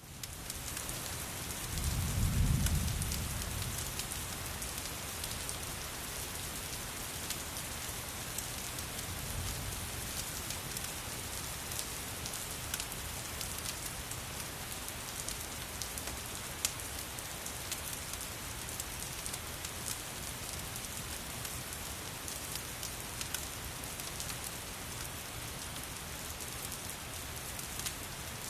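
Steady rain falling on a surface, with a low rumble of thunder about two seconds in and a fainter rumble around ten seconds. Scattered sharp clicks run through the rain.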